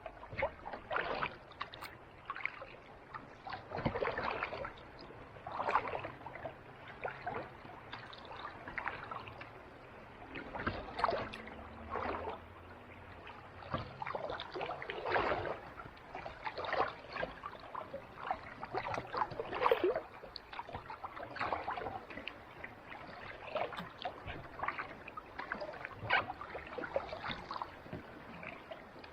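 Kayak paddle strokes on calm sea water: a soft splash and swish of the blade about every two seconds, over the low lapping of water around the hull.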